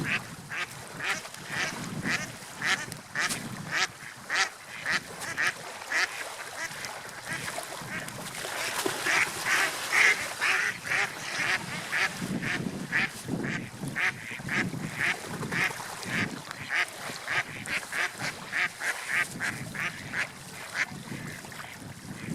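Waterfowl, such as ducks, calling in a long run of short calls, about two a second, loudest around the middle, over a steady hiss of wind and water.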